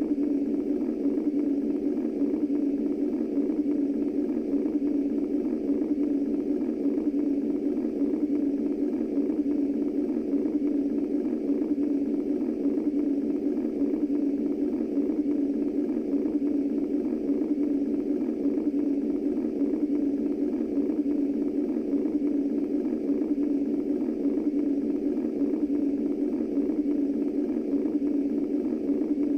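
Womb-style white noise: a steady, muffled, deep rushing noise that does not change.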